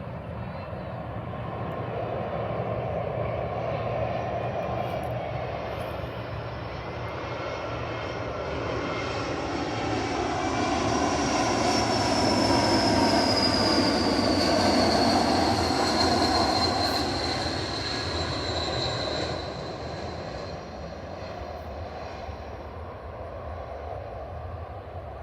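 Jet airliner passing close by: engine noise builds to a peak about halfway through and then fades, with a high whine that falls in pitch as the plane goes past.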